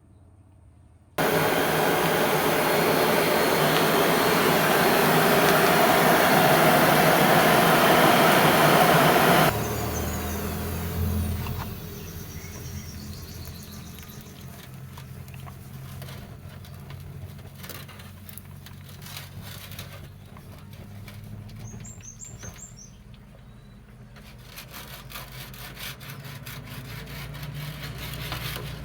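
A power tool working leaf-spring steel: a loud, harsh noise starts suddenly about a second in, runs for about eight seconds and cuts off. It is followed by a much quieter low hum with scattered clicks.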